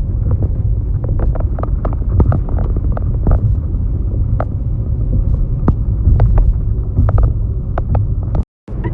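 Steady low rumble of a car in motion heard from inside the cabin, with many scattered light clicks and knocks over it.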